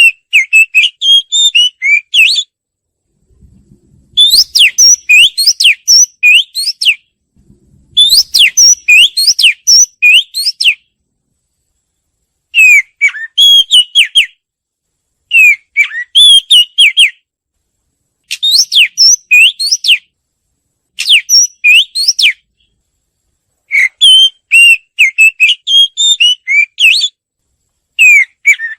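Oriental magpie-robin singing: about nine loud phrases of varied, quickly rising and falling whistled notes, each lasting one and a half to three seconds, with short silent pauses between them.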